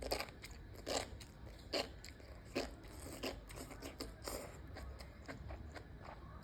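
Close-miked chewing of cooked enoki mushrooms: a run of crisp, wet crunches, roughly one a second, with the loudest in the first few seconds.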